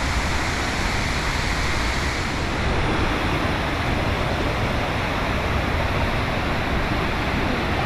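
River water and waterfall rushing steadily.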